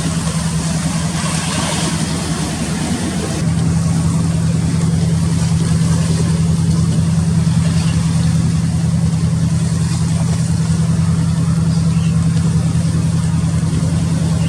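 Large engine running steadily with a low hum, getting louder about three and a half seconds in.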